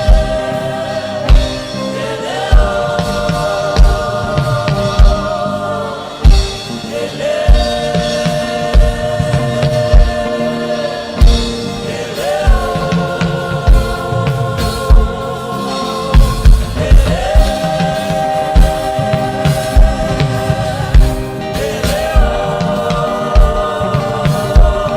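Gospel worship music: a choir or congregation singing long, held notes that change every few seconds, over a steady kick-drum beat.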